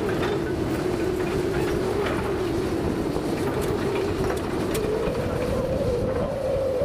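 Komatsu PC200 hydraulic excavator working under load: diesel engine and hydraulics running with a steady whine that climbs a little toward the end, over a rumble, with scattered faint clicks.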